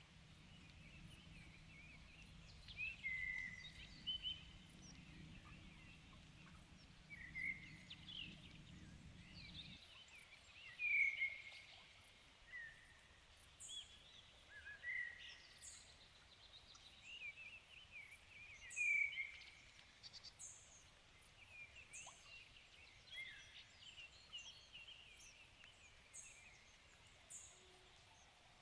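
Several songbirds singing and calling: short chirps, trills and whistled phrases from a few different birds, with occasional thin high notes. A faint low hum runs underneath for about the first ten seconds and then cuts off.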